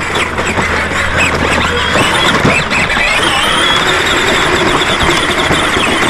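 Battery-powered ride-on toy tractor driving along a trail, its electric motor and gears whining, with a high squeal that rises about three seconds in and then holds.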